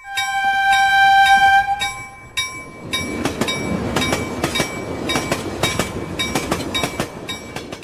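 Locomotive horn sounding one steady note for about two seconds. The rush and rhythmic wheel clatter of a train passing close by follow it. The sound cuts off abruptly at the end.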